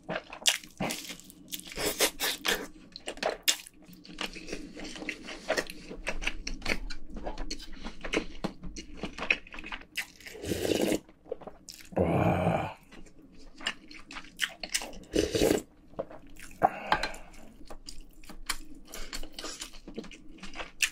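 Close-miked eating: chewing and biting food, with many short clicks and smacks, and a few longer, louder mouth sounds about halfway through.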